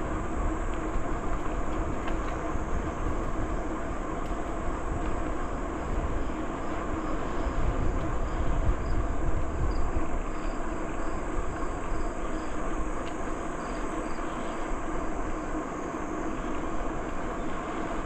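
Bicycle in motion: steady tyre rumble on the trail surface mixed with wind noise on the microphone.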